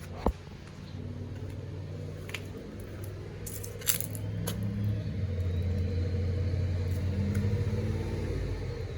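A low, steady engine-like rumble that swells over several seconds in the second half and then eases off, with a few sharp clicks of handling.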